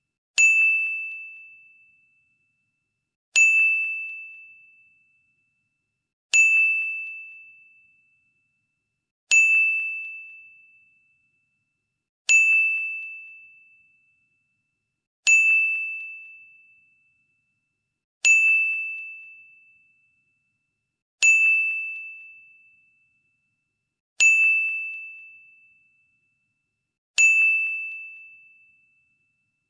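A "ding" sound effect repeated ten times, about every three seconds. Each ding is a single clear, high bell-like tone that strikes sharply and fades away over about two seconds.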